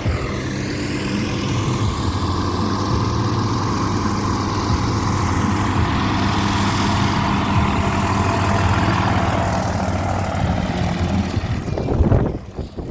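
Light propeller airplane's piston engine running steadily, loud. It stops abruptly near the end.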